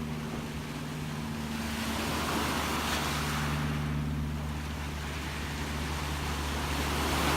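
Gentle sea waves washing in, one swell of surf building about two seconds in and another near the end, over a steady low hum.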